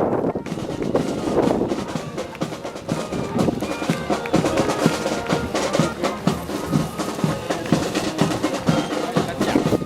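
Brass band playing, with snare drum rolls and bass drum keeping the beat.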